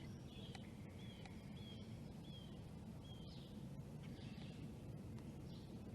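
A bird calling with a series of short, falling chirps spaced under a second apart through the first three seconds or so, over a faint, steady low rumble.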